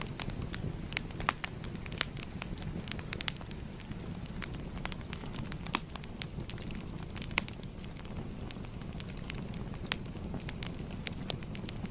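Fire crackling: a steady low rumble with many sharp, irregular pops and snaps, a few of them louder than the rest.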